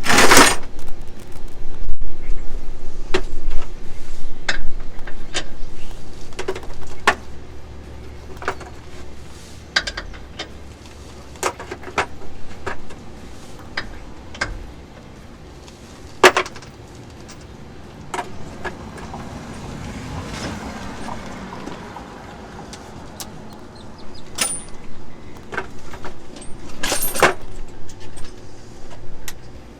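Hand tools clinking and clanking against metal while working under a truck: scattered sharp clicks and knocks, with a hard knock right at the start and louder clanks about halfway through and near the end. A low rumble sits under the first few seconds.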